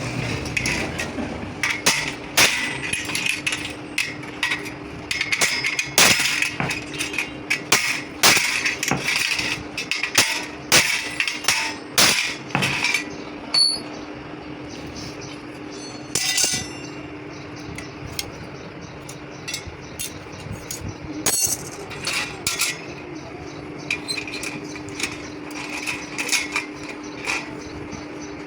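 Hand tools striking and clinking on the metal parts of a clutch plate being dismantled for repair, in rapid, irregular hammer taps and clinks. The strikes come thick through the first half and thin out after, over a steady hum.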